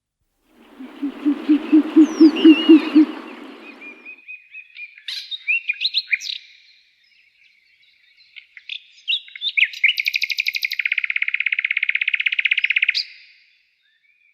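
Bird calls. A quick run of about ten low hooting notes comes first, then scattered high chirps, then a fast high trill lasting about three seconds that stops abruptly near the end.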